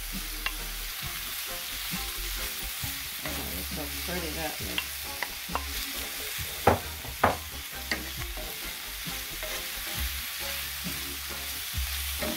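Sliced portobello mushrooms, red bell pepper and onion sizzling in oil in a skillet as a wooden spatula stirs and scrapes them, with light clicks throughout and two sharp knocks about seven seconds in.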